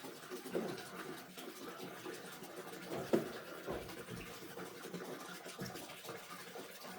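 Faint scratching and rustling with a few soft knocks, the sharpest about three seconds in.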